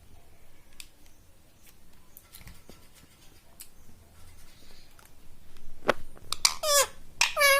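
Pet parrot squawking several times in quick succession in the last couple of seconds, after a stretch of faint scattered clicks.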